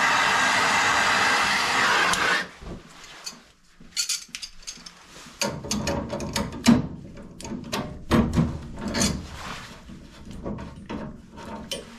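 A steady whirring machine stops suddenly about two seconds in. It is followed by a run of sharp metallic clicks, knocks and scrapes as hand tools work a valve fitting on water heater piping loose.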